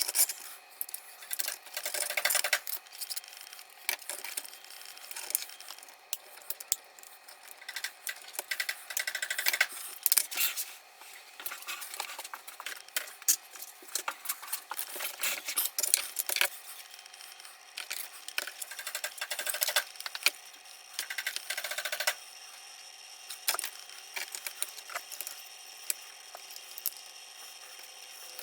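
Small hard objects clicking, tapping and scraping as they are handled, in irregular bursts; the handling thins out about three quarters of the way through, leaving a faint steady hiss with a few clicks.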